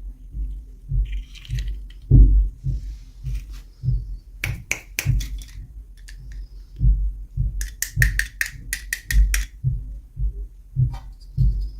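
Toy packaging being handled and opened by hand. Repeated low bumps and thuds run through it, with quick runs of sharp plastic clicks about halfway through and again about two-thirds of the way in.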